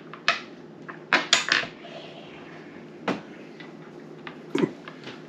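Dominoes clicking and clacking on a tabletop as tiles are set down and moved: several short, sharp clicks spread out, with a quick cluster of three about a second in.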